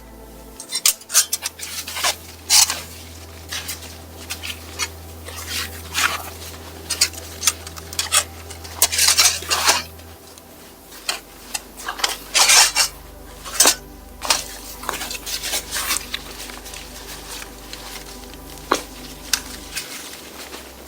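Metal camping gear being handled: irregular metallic clinks and clatters with short bouts of rustling.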